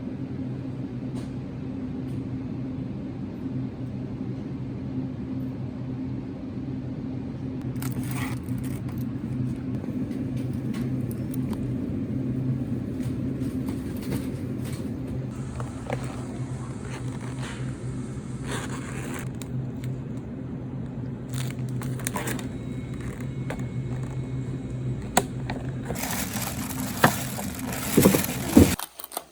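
A steady low mechanical hum with a two-note drone, with scattered small clicks and scrapes on top; it cuts off abruptly about a second before the end.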